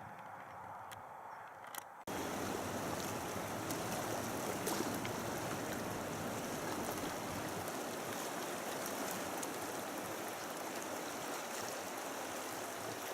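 Flowing stream water making a steady rushing sound, starting abruptly about two seconds in after a quieter stretch with a few faint clicks.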